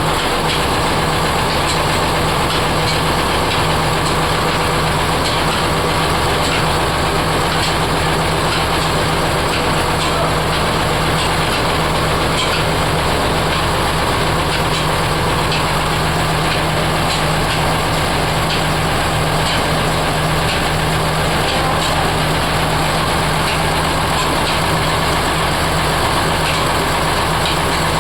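Oil expeller (screw oil press) running steadily under power: a constant machine drone with a low hum and a fast, even clatter of gears and the turning screw.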